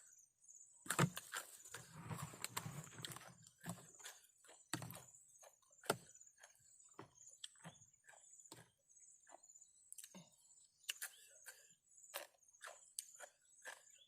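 Eating sounds: irregular crisp crunches and clicks, with a rustling stretch early on. A steady high insect chirr, typical of crickets, runs behind.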